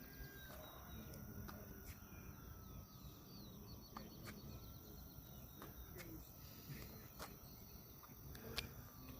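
Faint outdoor ambience: the distant high whine of an electric RC airplane motor, drifting slowly lower in pitch, with small bird chirps and a few scattered clicks.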